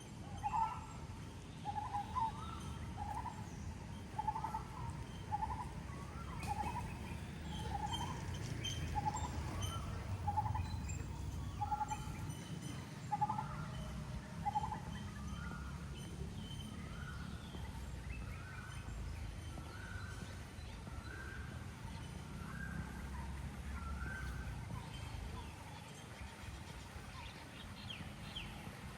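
A bird calling a long series of short, evenly spaced notes, about one a second, rising gradually in pitch before stopping near the end, over a steady low background rumble.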